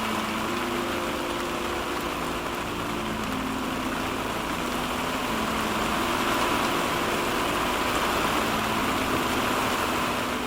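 Heavy rain pouring down in a steady downpour, a dense even hiss that swells a little in the second half.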